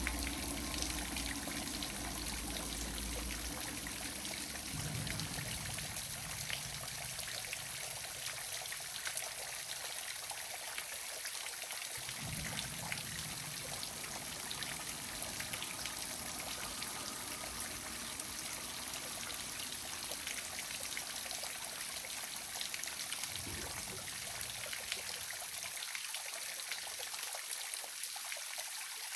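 Small waterfall splashing and trickling steadily.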